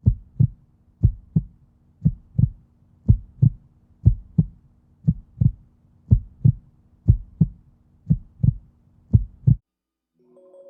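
Heartbeat, a low double thump (lub-dub) about once a second, ten beats in all, stopping about a second before the end. Soft music begins to fade in right at the end.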